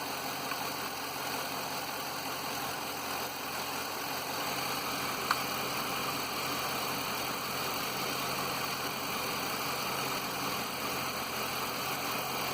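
Mercury Grand Marquis V8 engine idling steadily, with a single sharp click about five seconds in. The engine has an undiagnosed knock that the owner says does not follow engine rpm.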